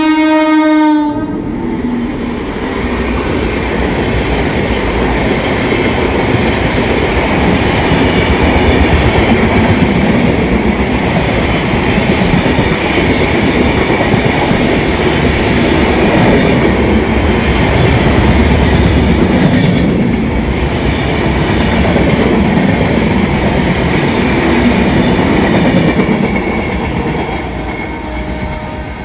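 An express train hauled by a WAP-7 electric locomotive passes close by. The locomotive's horn cuts off about a second in, followed by the steady rumble and clatter of the coaches going by, which fades near the end.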